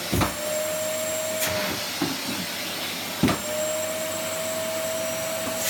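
Electric vacuum cleaner running steadily, with two knocks as plastic balls are caught on the nozzle. Each knock is followed by a steady whistle while a ball blocks the opening.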